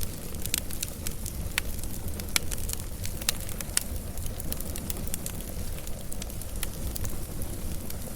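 Wood fire crackling and popping over a steady low rumble of flames, the sharp pops coming thickest in the first half.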